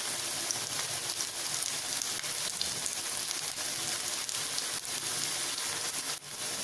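Breadcrumb-coated beetroot cutlets shallow-frying in a thin layer of hot oil in a pan: a steady sizzle with scattered small crackles, the first side browning before the cutlets are turned.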